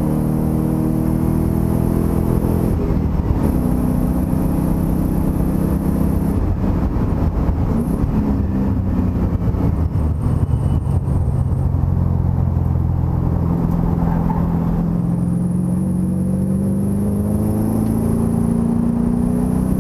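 Race car engine heard from inside the cockpit at speed, running hard. The revs shift through the corners, with a rougher stretch around the middle and a steady climb in pitch near the end as it pulls again.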